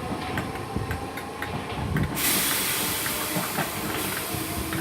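Merseyrail electric train at the platform: light wheel clicks over the rails, then about two seconds in a sudden steady hiss of air starts and holds.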